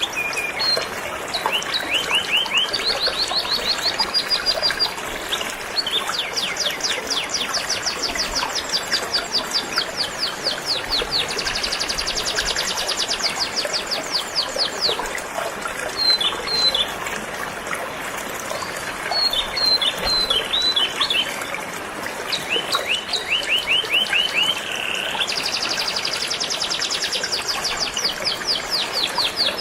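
Canary song: fast trills of rapidly repeated short notes, changing to a new trill every few seconds, over the steady rush of flowing river water.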